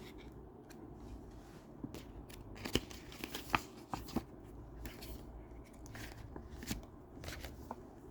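Close handling noises: scattered light clicks, taps and rustles as objects are picked up and moved, with a few sharper taps around three seconds in.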